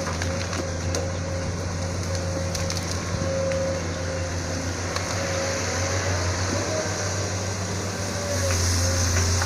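Sunward SWE210 excavator's Isuzu 6BG1 six-cylinder diesel running steadily under work, with a wavering whine over the engine drone and a few faint cracks; the engine gets louder about eight seconds in.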